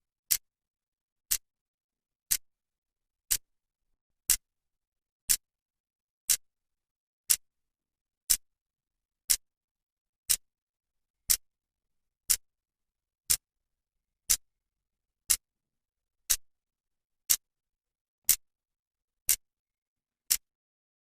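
Clock's second hand ticking: one sharp, crisp tick per second, evenly spaced, with silence between ticks.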